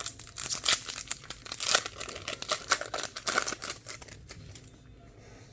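Foil wrapper of a trading card pack being torn open and crinkled, a dense irregular crackling that dies down about four seconds in.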